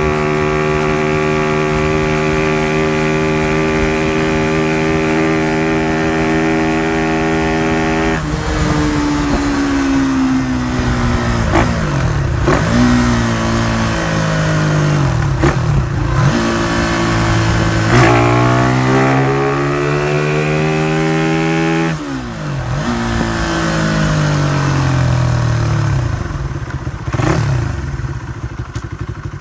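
Small Honda CY50/80 four-stroke single-cylinder motorcycle engine with an alternative exhaust, held at steady revs for about eight seconds. It then rises and falls in pitch with sudden breaks between, like the bike pulling through its gears, and grows fainter near the end.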